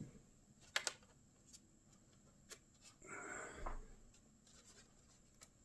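Faint handling noises of a tray being pressed into a cardboard display stand: two sharp clicks a little under a second in, a few lighter ticks, then a short rustling scrape ending in a soft thump about three seconds in.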